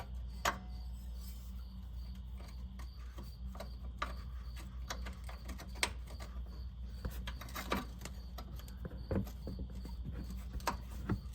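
Scattered light metallic clicks and taps as the upper control arm's alignment cam and bolt are turned and lined up, over a steady low background hum.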